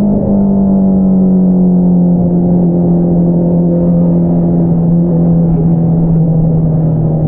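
Honda CBR650R's inline-four engine through an Akrapovič single-outlet exhaust, running under way with a steady exhaust drone. After a short dip right at the start, its pitch sinks slowly as the revs fall.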